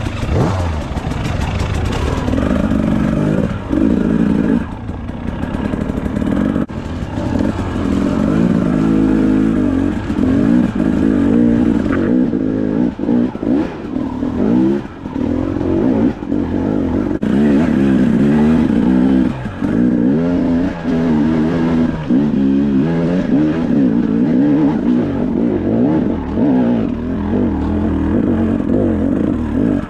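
Two-stroke enduro motorcycle engine revving up and down over and over as the bike is ridden up a rough trail, heard from the rider's helmet.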